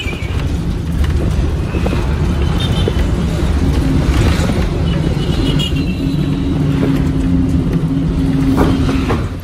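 Road traffic: vehicle engines running with a steady low rumble, and a low engine hum joining about a third of the way in.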